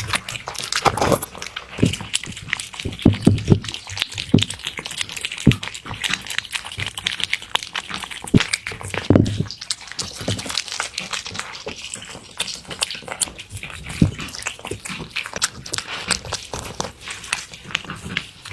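A cat eating: a dense run of small chewing and licking clicks, with a few low thumps.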